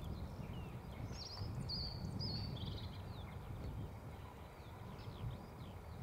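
Small birds chirping and calling, a scatter of short downward-sliding notes with a busier run of calls in the first half, over a low, unsteady rumble of wind on the microphone.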